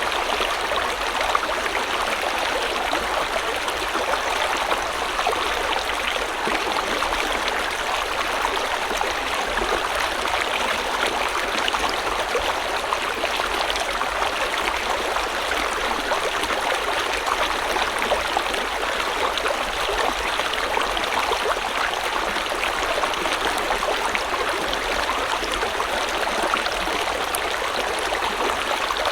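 River water flowing steadily, a continuous rushing and babbling of a stream over rocks.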